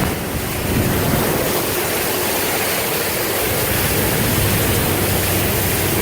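Floodwater rushing and splashing against a large motorhome as it drives through water several feet deep: a steady wash of noise, with the engine's low hum beneath it.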